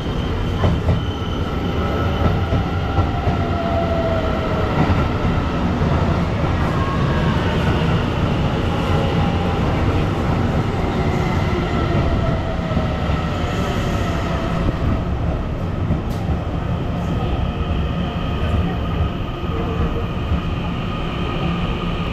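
Passenger train running on the rails: a steady rumble with faint whining tones that slowly drift up and down in pitch.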